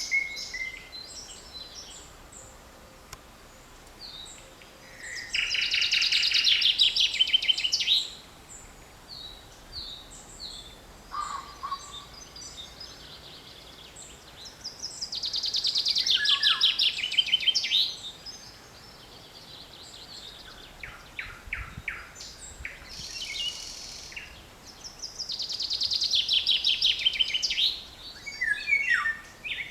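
Woodland songbirds singing: one bird repeats a loud song of rapid notes lasting about three seconds, three times about ten seconds apart, while other birds call softly in between.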